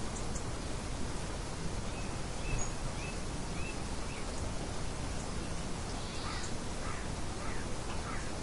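Nature ambience: small birds chirping, a run of four or five short chirps about two to four seconds in and more scattered chirps near the end, over a steady rushing noise.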